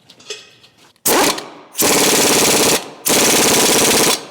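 Impact wrench running the axle nut onto a front axle shaft in rapid hammering bursts. After a quiet first second it gives a short burst, then two longer bursts of about a second each.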